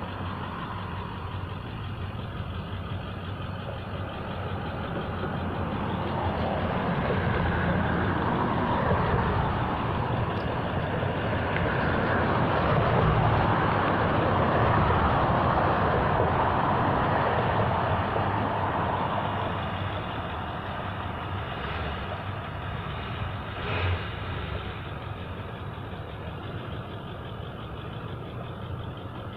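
Road traffic: a motor vehicle passing, its engine and tyre noise swelling to a peak about halfway through and then fading away. A short knock sounds near the end.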